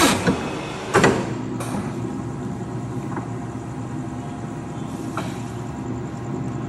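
Programmable paper guillotine cutter running with a steady motor hum. Two loud clunks come at the start and about a second in, then a few fainter knocks.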